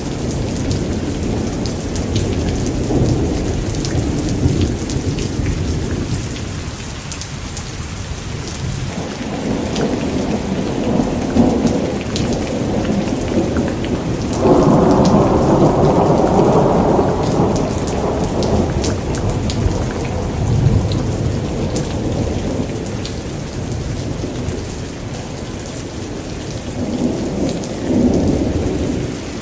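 Steady rain with thunder rolling and rumbling underneath; about halfway through a louder peal of thunder swells up and rolls on for a few seconds before fading back.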